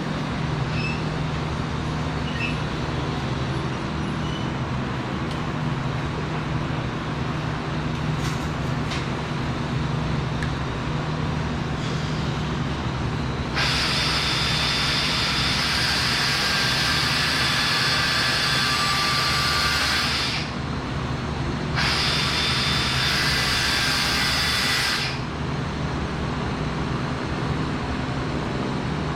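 Steady machinery hum of a welding fabrication shop. Over it, a metalworking tool gives two long bursts of loud, even hissing that start and stop abruptly: the first about seven seconds long, the second about three.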